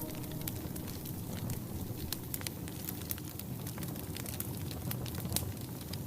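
Wood fire crackling inside a wood-burning stove: many irregular sharp pops and snaps over a soft, steady hiss.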